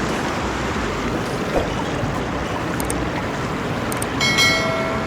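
Steady rushing of river water over rapids. Near the end comes a brief pitched whine lasting under a second, and a couple of light clicks sound just before it.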